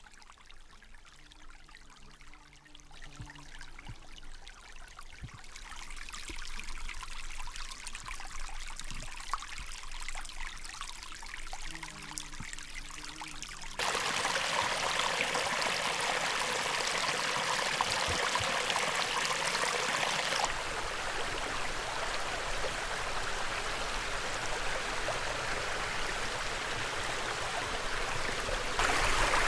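Small mountain creek running and splashing. It fades in over the first several seconds, then abruptly gets louder about halfway through.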